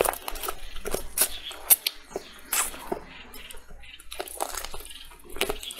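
Biting and chewing meat off a braised chicken drumstick close to the microphone: irregular mouth smacks and sharp clicks.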